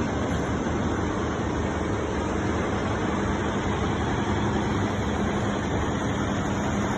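Steady, loud city din: road traffic mixed with construction-site noise from jackhammering and drilling.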